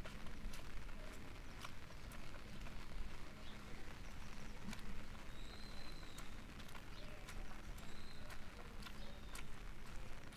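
Outdoor neighbourhood ambience on a rainy day: scattered sharp taps and clicks over a low steady hum, with two short high chirps a few seconds apart in the middle.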